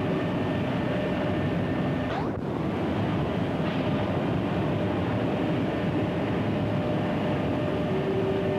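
Steady hiss and rumble of an early optical film sound track with no speech on it, carrying a faint steady hum. There is a brief swooping blip about two seconds in.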